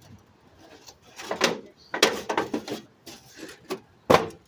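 Metal register vent being handled and fitted into its opening: a series of irregular knocks, scrapes and rattles, with a sharp knock near the end.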